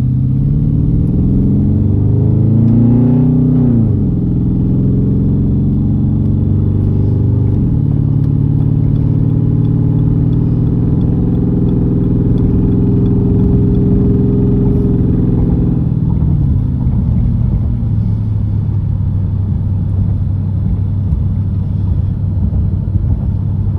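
A 2013 Jeep Grand Cherokee's 5.7 Hemi V8 through Cherry Bomb mufflers with the suitcase muffler and resonator deleted, heard inside the cab while driving. The exhaust note climbs and drops back sharply twice as the transmission upshifts, holds a steady drone, then falls away after about sixteen seconds and settles to a lower steady hum.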